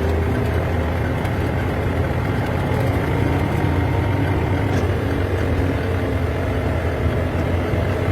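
An engine running steadily at constant speed, a low, even drone with no change in pitch or level.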